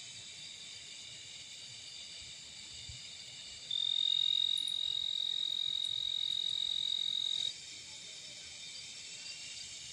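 A steady chorus of insects trilling on several high pitches. About a third of the way in, one louder high, steady whistling tone starts and holds for about four seconds, then cuts off suddenly.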